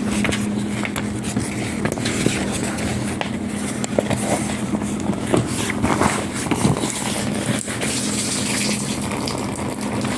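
Rainwater gushing and splashing as it pours off a boat's canvas canopy, over a steady low hum.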